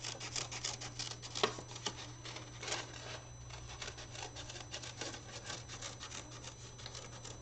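Scissors cutting through folded paper in quick, irregular snips, cutting out several egg shapes at once.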